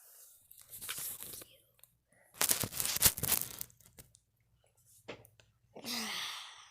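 Crinkling and rustling handling noise in several short bursts, the loudest and longest about two and a half seconds in, with sharp clicks inside it.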